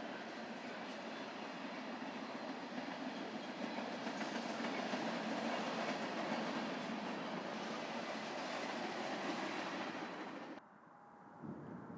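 Freight train rolling past: a steady rumble and rattle of wheels on the rails, cutting off abruptly near the end.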